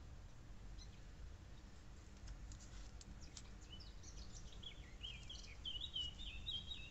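Faint background hum with a few soft clicks, then a small bird twittering quietly in quick short chirps during the second half.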